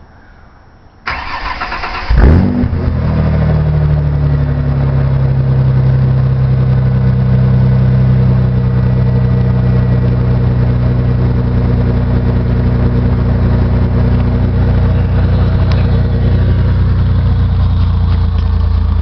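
A 1995 Ford Aerostar van's V6 is cranked by the starter about a second in, catches a second later with a loud flare, then drops back and settles into a steady idle. This is a cold first start of the day, heard at an exhaust with the muffler removed and only the catalytic converters and a resonator left in.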